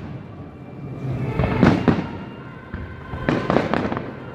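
Fireworks bursting in two quick clusters of bangs, one about a second and a half in and another a little past three seconds, with music playing underneath.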